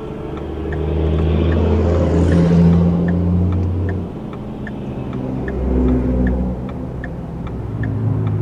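Car cabin sound while driving: engine and road rumble swelling over the first few seconds and again near the six-second mark, with a brief rising hiss near two seconds, over the steady ticking of the turn-signal indicator.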